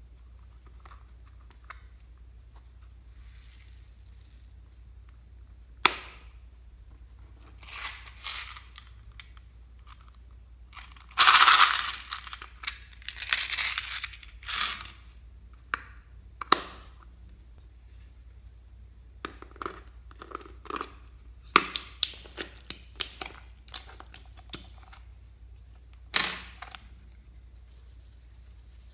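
Slime being squeezed and stretched by hand, giving irregular sticky pops, clicks and crackles. The longest and loudest crackle comes about eleven seconds in, with a quick run of pops later on.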